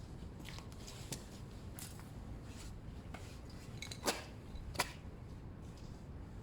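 Small metallic clicks and rustles from fastening a stainless steel cable tie around fibreglass exhaust wrap, with two sharper clicks about four seconds in and just under five seconds in.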